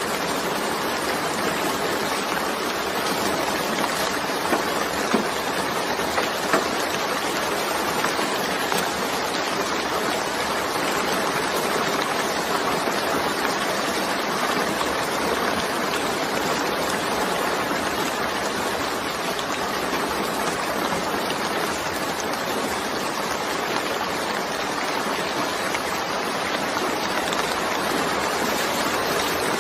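Steady rainfall, an even dense hiss of rain, with a few louder individual drop ticks about five to seven seconds in.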